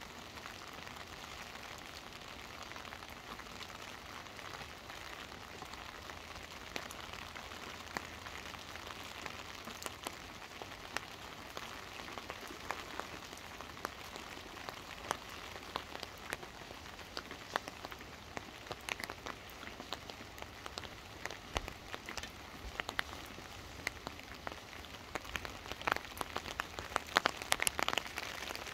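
Rain falling on a wet street: a steady hiss of rain, with sharp clicks that grow more frequent and louder near the end.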